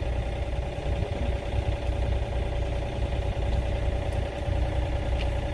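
Engine of excavation equipment idling steadily: a low rumble with a steady hum above it.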